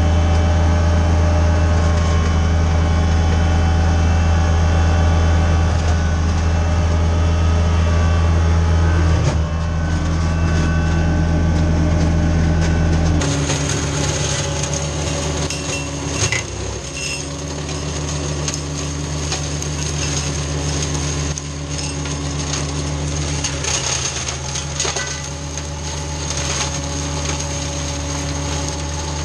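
Tractor engine running steadily. About thirteen seconds in its note drops slightly and changes, with scattered clicks and knocks over it after that.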